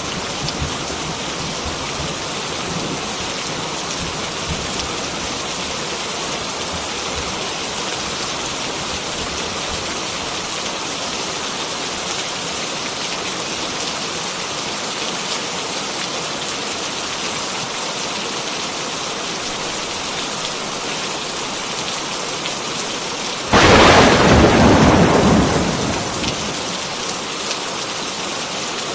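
Heavy rain falling steadily. About three-quarters of the way through, a sudden loud thunderclap breaks out and rumbles away over a couple of seconds.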